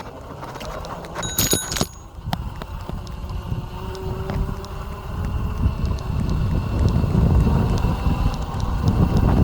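A bicycle bell on an electric bike rings once, about a second in. Later a low rumbling noise builds and grows louder toward the end.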